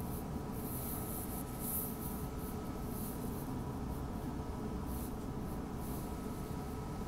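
Interior running noise of an electric suburban train on the move: a steady low rumble of wheels on track with a faint steady whine, and short high hisses coming and going.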